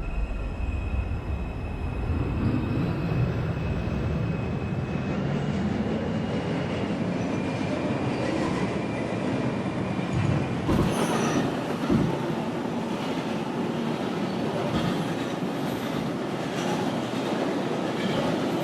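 Interior of an R142 subway car running between stations: steady wheel-on-rail rumble, with a steady motor whine in the first few seconds as the train pulls away. A few sharp clanks come near the middle.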